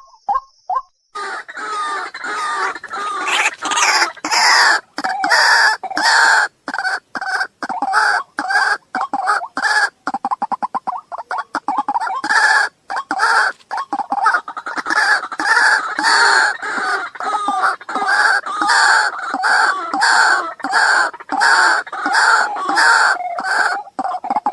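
Waterhen calling: a long run of loud repeated calls, several voices overlapping, beginning about a second in after a brief pause.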